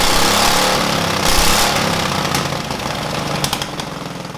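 Small single-cylinder petrol engine of a homemade motorcycle running loudly with a rapid pulsing beat, getting quieter toward the end.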